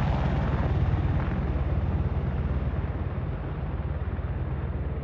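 Boeing AH-64E Apache Guardian attack helicopter flying away: a fast, even rotor chop over a low engine hum, steadily fading as its higher tones die away.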